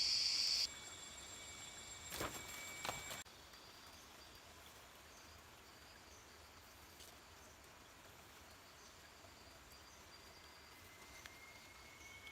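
Outdoor ambience of insects chirping. A loud high buzzing cuts off abruptly under a second in, a few knocks follow around two to three seconds, and then fainter, evenly repeating chirps continue.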